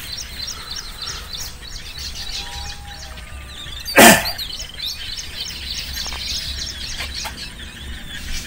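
Birds chirping over and over without a break. About four seconds in comes one sudden loud thump lasting a fraction of a second, the loudest sound here.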